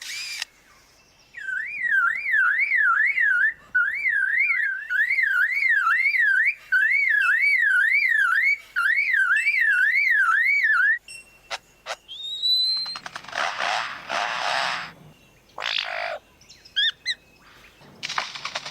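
Lyrebird mimicking sounds: a long run of fast whistles sweeping up and down about twice a second, in several phrases, then a few rising whistles, harsh rasping bursts and short chirps near the end.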